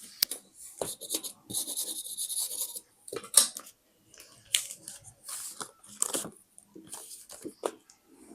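Paper being handled for scrapbooking: a run of crisp rustles, scrapes and clicks, with a longer scraping stretch about two seconds in.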